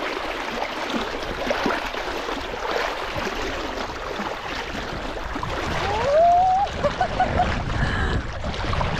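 Seawater splashing and sloshing steadily. About six seconds in, a voice rises in pitch and holds, followed by a few short high vocal sounds.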